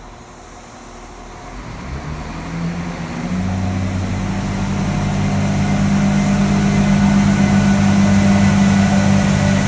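Irish Rail Class 22000 diesel multiple unit departing under power: its underfloor diesel engines come in about two seconds in as a deep, steady drone that grows steadily louder as the train draws nearer.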